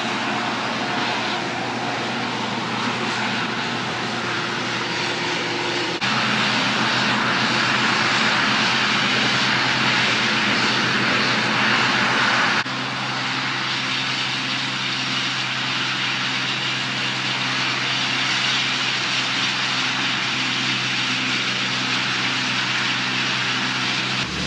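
A large engine running steadily under a broad rushing noise, its sound changing abruptly about six seconds in and again near the middle.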